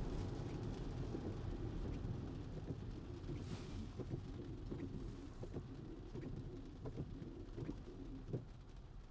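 Road and tyre noise inside a Tesla's cabin on a wet road, fading steadily as the car slows. A short hiss comes about three and a half seconds in, and soft irregular ticks follow through the second half.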